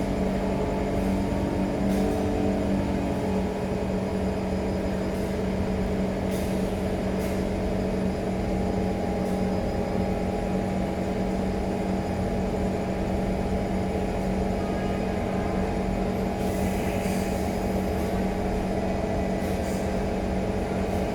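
SMRT C151 metro train running between stations, heard from inside: a steady hum of the traction motors with several held tones over rolling noise. The tones shift a couple of seconds in, and a short hiss comes late on.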